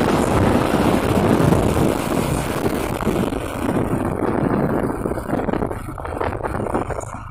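Truck engine and road noise, with wind buffeting the microphone, dying down over the last few seconds.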